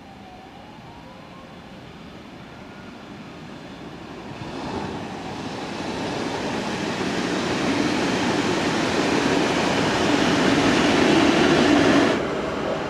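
Double-deck passenger train, led by its control car and pushed by a locomotive at the rear, rolling past. The rumble of wheels on rail builds from about four seconds in, is loudest near the end, then drops off suddenly.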